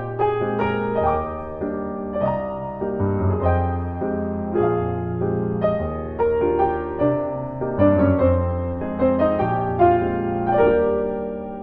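Background music: solo piano playing a gentle melody over sustained bass notes.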